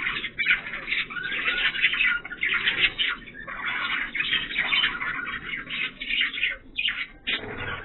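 Budgerigars chattering and warbling: a continuous, scratchy stream of rapid chirps and rasps with only brief pauses.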